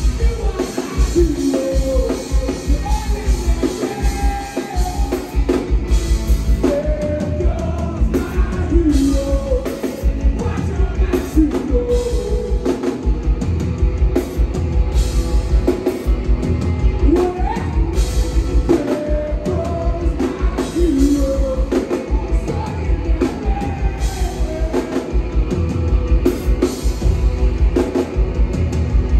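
Live rock band playing loudly, with a singing voice over distorted guitar, bass and a drum kit, recorded from the audience.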